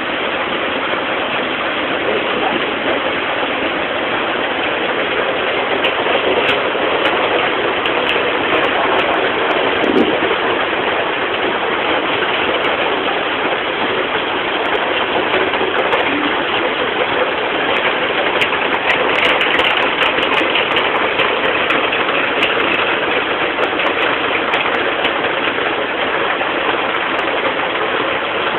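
Heavy rain pouring down: a steady, even hiss that swells a little in the middle.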